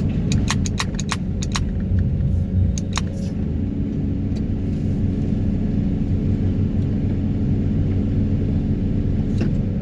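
Excavator carrying a vibro hammer running steadily with a low, even hum, with a quick string of sharp clicks in the first three seconds.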